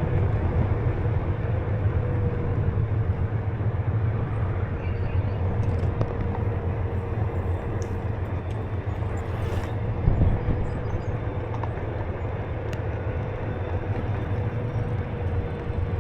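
Onewheel electric board ridden along, a steady hum from its hub motor over a constant low wind rumble on the microphone. One short knock about ten seconds in.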